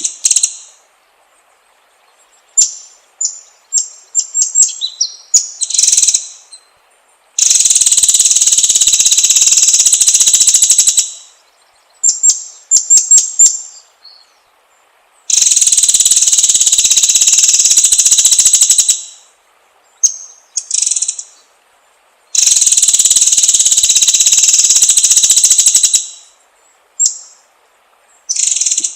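White-rumped shama (murai batu) singing: short high whistled notes and quick runs of chirps alternate with three long, harsh, rapid-fire trills of about three and a half seconds each.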